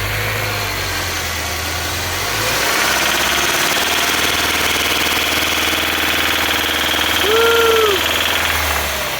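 Subaru FB25 flat-four engine running just after being started, with a knock from inside the engine. A used replacement engine that arrived this way. It runs faster from about three seconds in and drops back near the end, and a short rising-and-falling tone sounds about seven seconds in.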